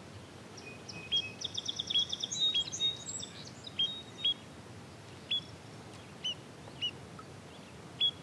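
Small birds calling: short, sharp chirps repeating about once a second, with a rapid trill of about a dozen higher notes between one and three seconds in.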